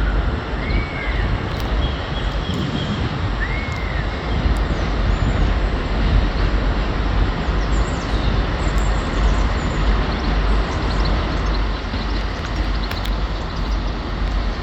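Train moving slowly through the station: a steady rumble, with two short faint squeaks in the first few seconds.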